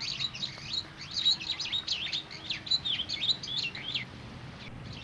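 Several small songbirds chirping and twittering in quick, overlapping high chirps; the chirping dies away about four seconds in.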